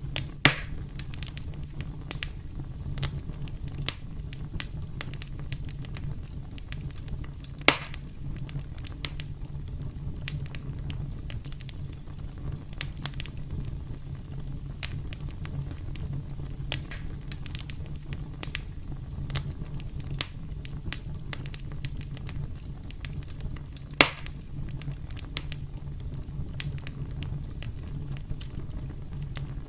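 Campfire burning with a steady low rumble and constant small crackles, with three louder sharp pops: about half a second in, near eight seconds, and near twenty-four seconds.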